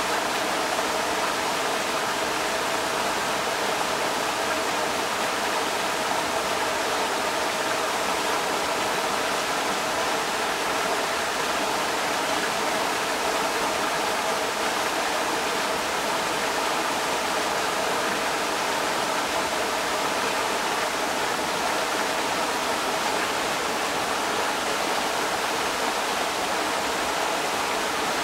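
Creek water rushing steadily over rocks, an even unbroken splashing rush.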